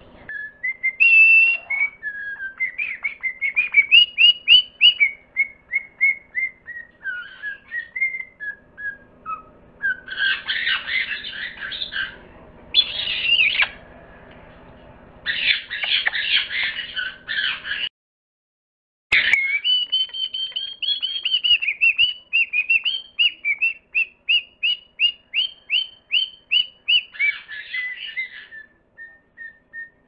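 Birds calling: runs of quick whistled notes, with bursts of harsh squawking from about ten to eighteen seconds in and a brief break in the sound just after that.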